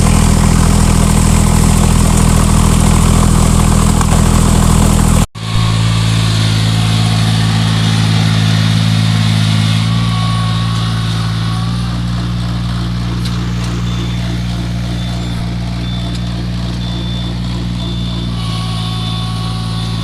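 Small engine of a mechanical rice transplanter running steadily. It breaks off for an instant about five seconds in and comes back with a different engine note, which shifts slightly a few more times.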